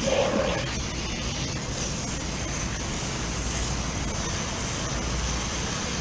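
Steady hiss of water spraying from a hose as a dirty condensing unit coil is washed, over a steady low rumble.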